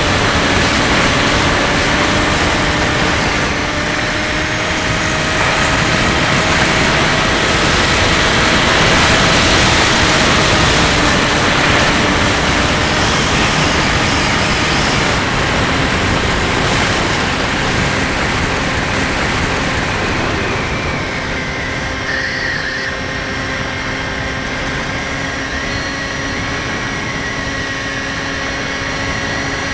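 Skywalker 1680 RC plane's electric motor and propeller running as a steady whine with several overtones, under heavy wind noise. About twenty seconds in, the wind hiss eases and the whine shifts slightly in pitch.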